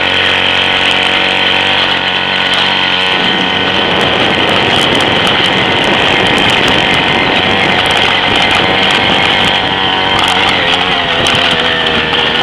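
Small gas-powered scooter engine running. It holds a steady pitch for about three seconds, then turns rougher, with its pitch wavering up and down and scattered rattling clicks as it rides over bumpy ground.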